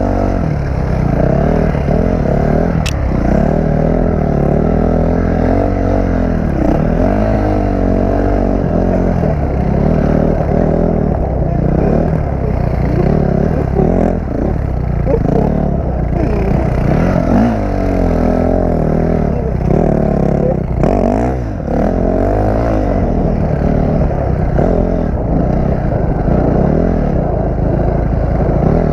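Dirt bike engine running as it is ridden, revs rising and falling over and over as the throttle is worked, with one sharp tick about three seconds in.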